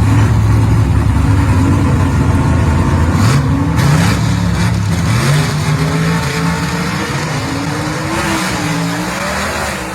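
Gasser drag cars' engines running loud and steady, then launching about three seconds in and pulling away down the strip. The engine pitch climbs, drops and climbs again with each gear change as the sound slowly fades.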